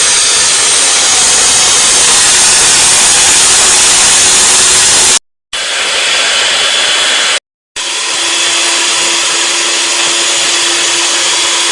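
Electric mixer beating cake batter, running loud and steady. It cuts out twice, briefly, in the middle.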